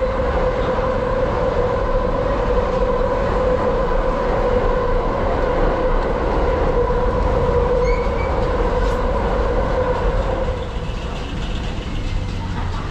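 A train running over the steel railway overpass overhead: a loud, steady rumble with a humming tone that eases off about ten seconds in.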